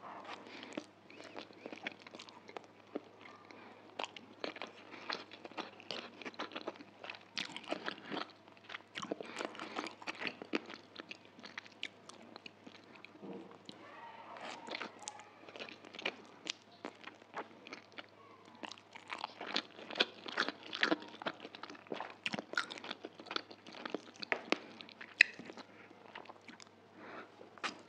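Close-miked eating of chicken chow mein: wet chewing of noodles with many small mouth clicks, and slurps as strands are drawn into the mouth.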